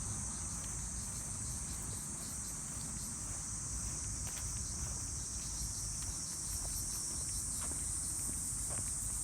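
Insects trilling in a steady, high-pitched chorus, with a faint low rumble underneath.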